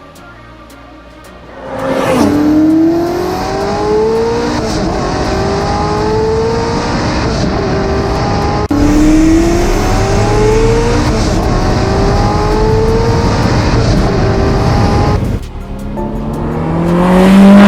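SSC Tuatara's twin-turbo V8 accelerating hard, starting about two seconds in. The revs climb and snap back again and again through quick upshifts, loudest near the end.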